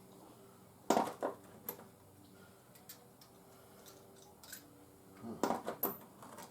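A few sharp clatters of small hard objects being handled, a cluster about a second in and another near the end, over a faint steady hum.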